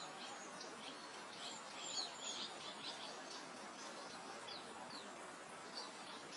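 Faint meadow ambience: a steady soft hiss of wind over grassland, with small birds giving many short, high chirps and quick falling notes, busiest around two seconds in.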